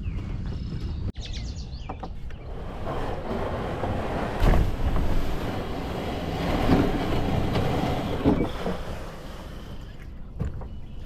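Kayak moving across the lake under a cordless-drill-driven propeller, with steady water and wind noise and no clear motor whine.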